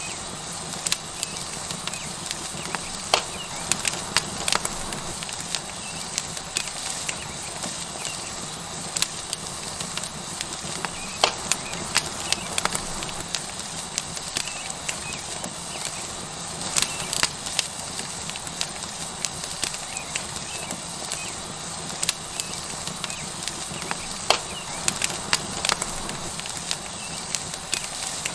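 Tomahawk steak sizzling on a hot rock over a wood fire, a steady hiss with the burning wood crackling and popping at irregular moments throughout.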